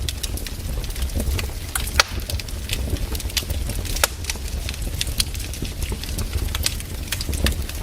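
Wood fire crackling with irregular sharp pops, the strongest about two and four seconds in, over a steady low rumble of the flames.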